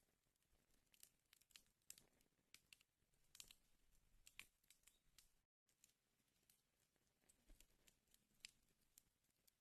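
Faint crackling of a wood fire in a fireplace: irregular sharp pops and snaps, several a second, over a soft hiss, with a brief moment of total silence about halfway through.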